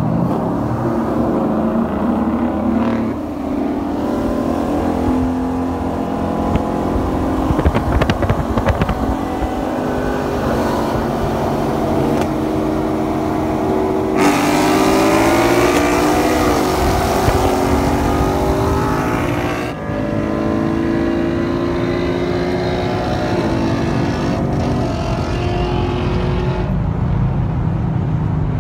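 Ford Mustang 5.0 Coyote V8 engines with modified exhausts at wide-open throttle in a roll race, heard from inside one of the cars. The revs climb steadily and drop back at each of several gear shifts.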